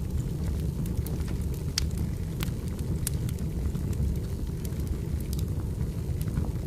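Wood fire burning: a steady low rumble of flames with irregular sharp crackles and pops of burning firewood.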